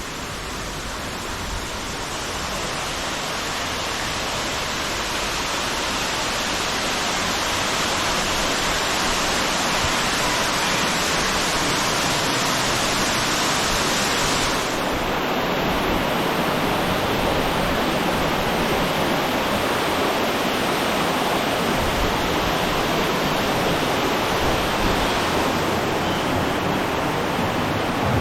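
Steady rushing of falling water, getting louder over the first several seconds, with the hiss dulling suddenly about halfway through.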